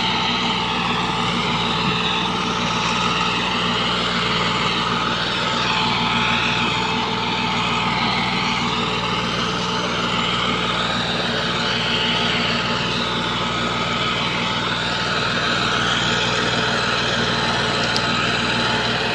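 Massey Ferguson 260 tractor's diesel engine running steadily under load, hauling a heavily loaded sugarcane trolley.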